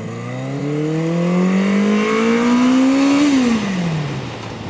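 Yamaha 750 Seca's inline-four engine accelerating, its pitch climbing steadily for about three seconds, then the revs drop quickly a little past the middle and settle to a low, steady note.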